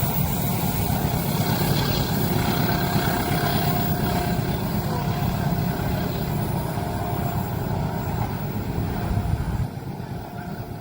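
Train passing close by at speed: a dense, steady rumble of wheels on rail that drops off sharply near the end as the train clears.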